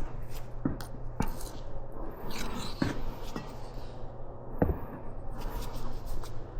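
A few sharp clicks and taps of a metal hand tool working grease into a CV joint, with light scraping, over a steady low hum.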